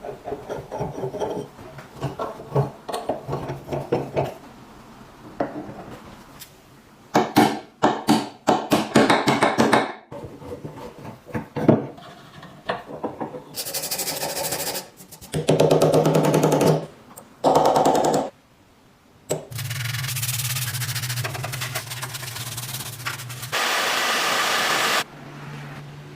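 Workshop tool work: rubbing and filing strokes, a quick run of scraping strokes, then a power tool running in several spells of a few seconds each.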